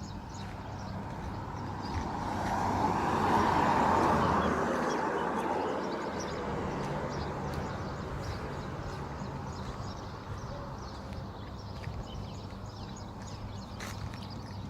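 A car passing by, its sound swelling and fading over a few seconds, about two to six seconds in, over steady outdoor ambience with faint bird chirps.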